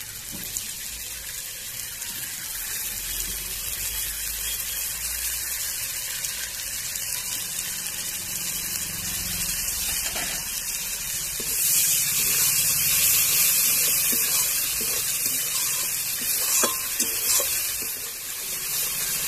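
Onion, garlic and ginger masala sizzling in mustard oil in a karahi, with yogurt just added: a steady hiss that grows louder about twelve seconds in. A few clicks of the metal spatula against the pan near the end.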